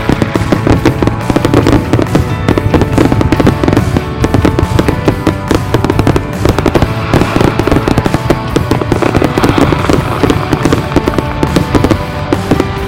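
Fireworks going off, a dense run of rapid pops and crackles, with music playing alongside.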